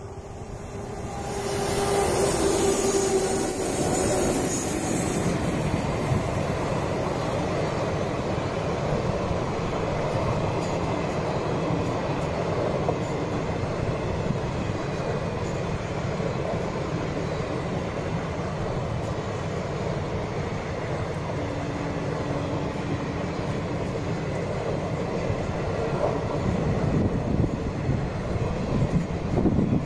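Electric-hauled passenger train passing at speed. The WAP-7 electric locomotive's approach swells into a loud hissing rush in the first few seconds, followed by a steady rumble of the coaches' wheels running along the track.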